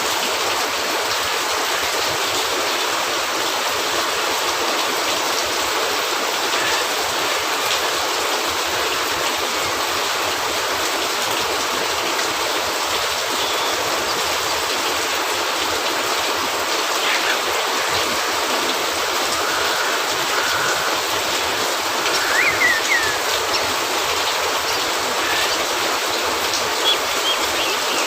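Steady rain on a cabin roof, an even hiss, with a few faint pops and crackles from a wood fire and a brief faint chirp about three-quarters of the way through.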